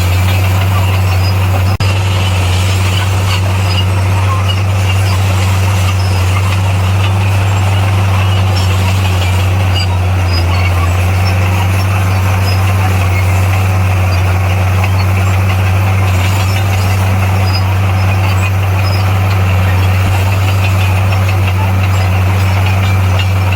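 Komatsu bulldozer's diesel engine running at a steady, unchanging pitch.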